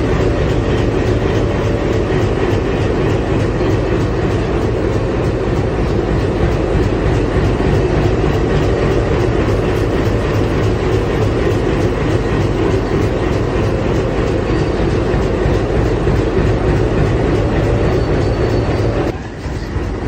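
Train running on the rails: a steady, heavy rumble with wheel clatter over rail joints. It dips briefly near the end.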